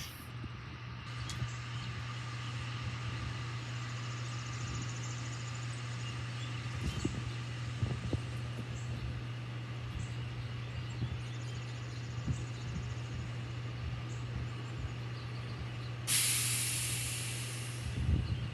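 International truck's engine idling with a steady low hum and a few light knocks. About sixteen seconds in, a loud hiss of air starts and slowly fades, as from the truck's air brakes.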